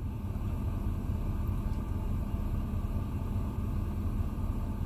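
Steady low engine rumble with a faint even hum.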